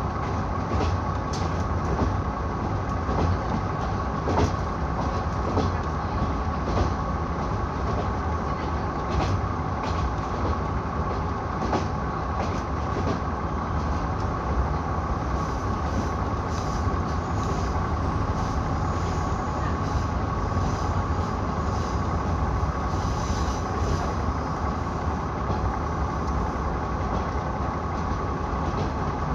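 KiHa 66 diesel railcar running along the line, heard from on board: a steady low rumble of engine and wheels with a thin steady hum above it, and sharp clicks of the wheels over rail joints scattered through the first half.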